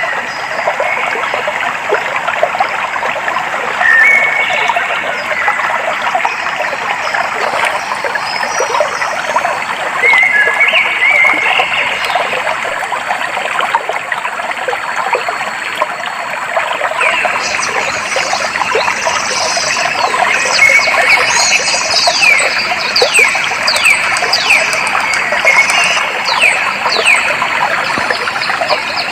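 Clear stream water flowing steadily, with birds calling over it: a few short whistled notes in the first half, then from about two-thirds of the way through, a rapid run of quick high falling notes.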